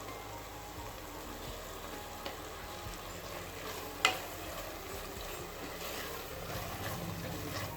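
Onion-tomato masala sizzling in a pot as it is stirred, with a steady frying hiss. One sharp click about four seconds in.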